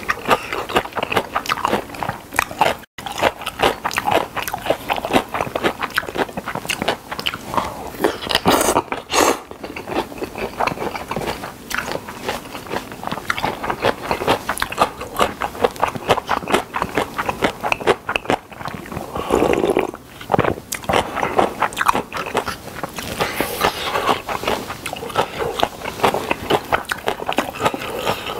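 Close-miked chewing of spicy whelk and somen noodle salad: continuous wet mouth clicks and smacks as the chewy whelk and noodles are worked, with a few louder wet bites along the way.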